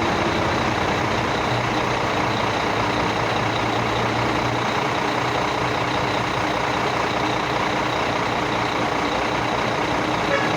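Heavy vehicle engine running steadily under a constant rushing noise, with no clear change through the stretch.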